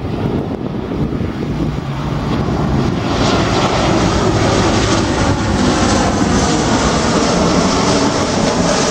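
An airliner's engines as it passes close on landing; the noise grows louder about three seconds in, then holds steady and loud.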